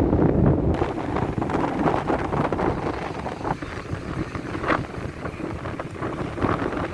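Strong sea wind buffeting the microphone in gusts, heaviest at the start and easing after about a second.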